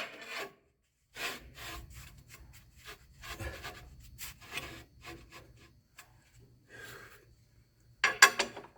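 Short rasping, scraping strokes of hand work, like a file or scraper rubbing on a workpiece, coming irregularly about one or two a second. A louder stroke comes near the end, over a faint low hum.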